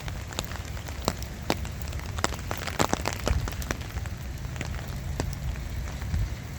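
Light rain falling, with scattered raindrops ticking at irregular intervals over a low, steady rumble.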